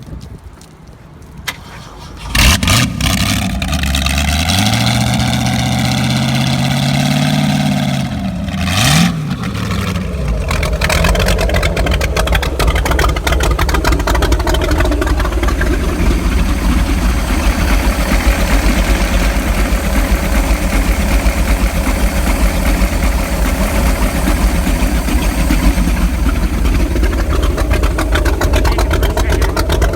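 Ford 427 high-rise big-block V8 starting about two seconds in, revving up and holding, then dropping back with a quick blip of the throttle. From about ten seconds in it runs steadily and loudly.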